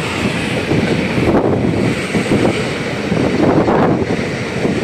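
Indian Railways train running, heard from an open window or door of a coach: a steady rumble of wheels on the track, with wind buffeting the microphone.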